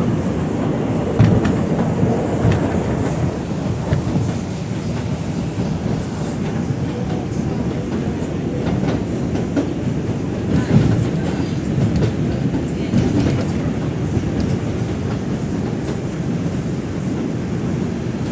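R142 subway car running between stations, heard from inside: a steady low rumble of wheels on rail, with scattered clicks and knocks as the wheels pass over rail joints and track work.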